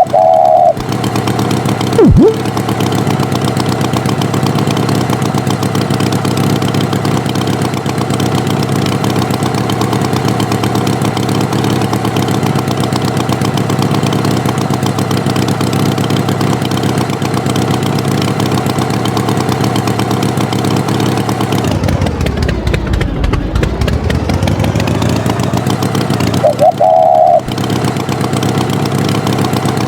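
Tractor engine running steadily. A short honk-like tone sounds at the start and again near the end, with a knock about two seconds in. Around three-quarters of the way through, the engine's pitch sweeps down and back up.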